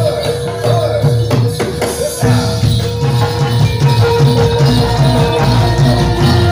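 Javanese gamelan music for a jathilan horse dance: drums, tuned metal percussion and jingling bells or tambourine. About two seconds in, the low part changes to a quicker, evenly pulsing pattern.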